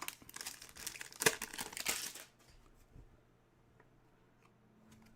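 Rustling and crinkling of trading cards and their packaging being handled for about the first two seconds, then it falls almost quiet.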